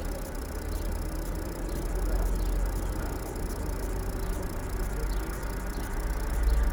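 Vehicle engine idling with a steady low rumble, getting louder near the end.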